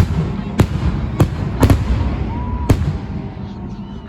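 Festive fireworks salute: aerial shells bursting in a series of sharp bangs, about five in the first three seconds, over a continuous low rumble.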